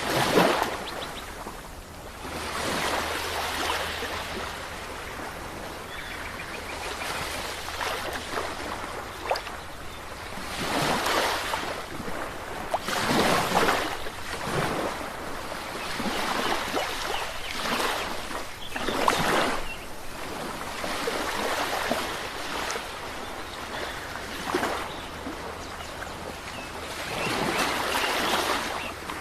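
Ocean waves breaking and washing on a shore, swelling and falling away every few seconds at an irregular pace.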